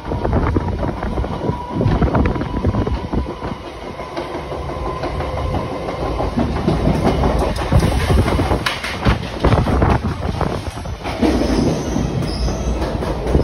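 Moving Indian Railways passenger coach, heard from aboard: a steady rumble from the wheels on the rails, with a run of clickety-clack clicks over the rail joints.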